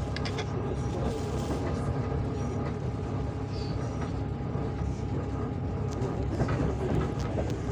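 Steady low rumble of a moving passenger train heard from inside the carriage, with a few faint clicks near the start.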